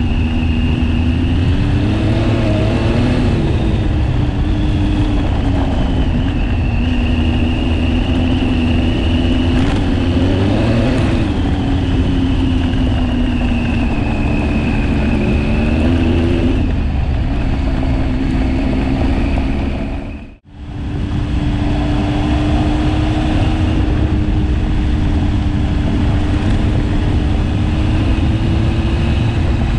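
KTM 1090 Adventure's V-twin engine heard from on board while riding a gravel road, its note rising and falling with the throttle over a steady low rumble. The sound drops out briefly about two-thirds of the way in.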